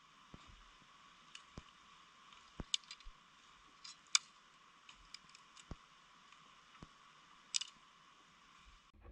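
Faint, scattered clicks and small pops at irregular intervals over a soft steady hiss, the loudest pops about four seconds in and near the end.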